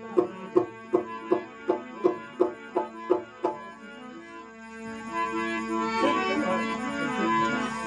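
Instrumental break in a Rajasthani desi veena bhajan: a steady drone with even struck beats, about three a second, for the first few seconds, then a melody of held notes that comes in about five seconds in.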